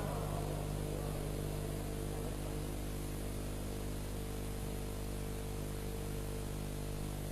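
Steady electrical hum with a buzz of evenly spaced low tones over a constant hiss, the mains hum and noise of the recording's amplified sound system.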